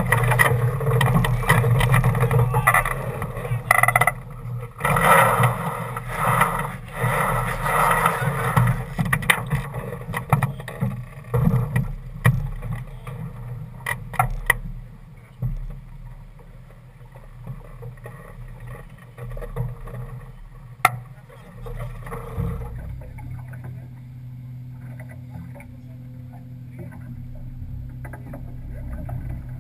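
A sailing yacht under way: a continuous rush of water and wind, busy and loud at first, with a few sharp knocks. About two-thirds through it settles into a quieter, steadier rush.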